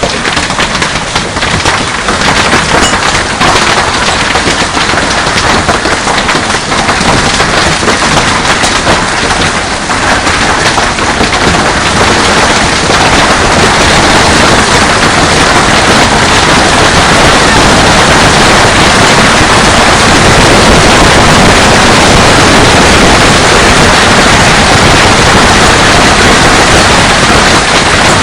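Heavy hail pelting hard surfaces: a loud, dense clatter of countless stone impacts over the rush of the storm, growing heavier about twelve seconds in and then keeping up at full force.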